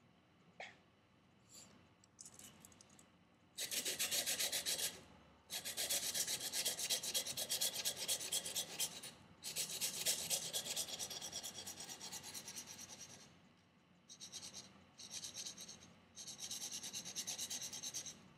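A steel knife edge stroked quickly back and forth on 400-grit sandpaper backed by a leather strop, convexing the edge. It comes in runs of rapid scratchy strokes a few seconds long with short pauses between them, after a couple of faint ticks at the start.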